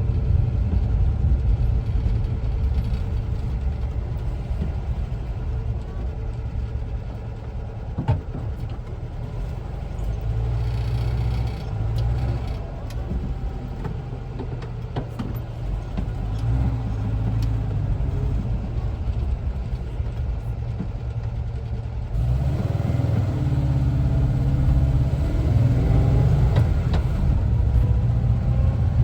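Air-cooled Type 4 flat-four engine of a 1974 Volkswagen Westfalia camper bus running while driving, with steady engine and road rumble. A single sharp knock about 8 seconds in, and the rumble steps up louder about three-quarters of the way through.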